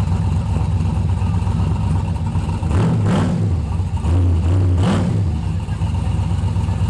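Car engine idling with a low, steady rumble, blipped twice: one short rev about three seconds in and another near five seconds.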